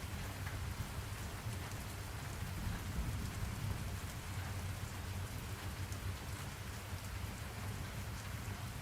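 Steady rain falling on surfaces, with a continuous deep low rumble under it and scattered small drop ticks.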